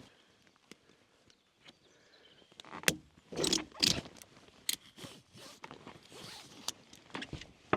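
A zipper pulled in two long strokes about three and a half seconds in, followed by scattered knocks and scraping as gear is handled.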